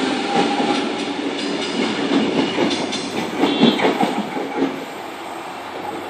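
Sydney Trains Tangara electric train running past on the track, steady rail noise with irregular knocks from the wheels, dying down about five seconds in as it moves away.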